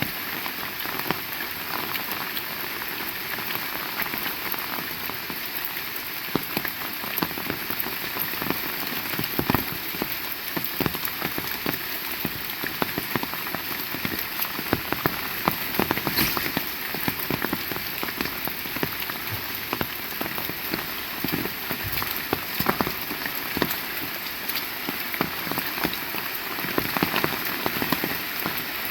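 Heavy rain falling steadily, with dense, close raindrop hits pattering throughout.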